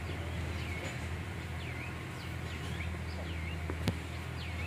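Small birds chirping repeatedly in short hooked calls over a steady low hum, with one sharp click near the end.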